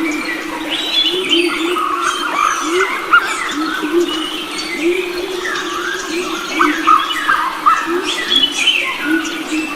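A chorus of forest birds chirping and whistling, several calls overlapping, over a low call repeated about twice a second.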